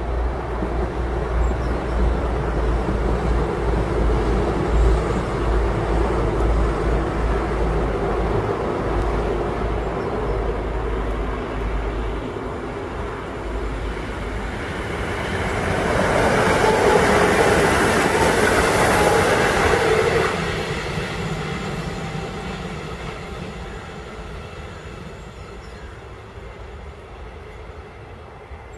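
Passing train: a Meridian electric multiple unit running over the railway overpass, its wheel-on-rail noise loudest in the middle and then fading. Before it a steady heavy low rumble of rail traffic carries the first part.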